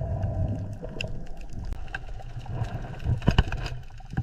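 Water ambience: a steady low rumbling wash with scattered small clicks and ticks.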